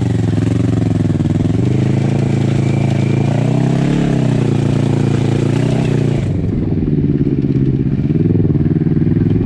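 Kawasaki Versys 650's parallel-twin engine running, its pitch rising and falling again and again with the throttle. About six seconds in, the high hiss above the engine drops away abruptly.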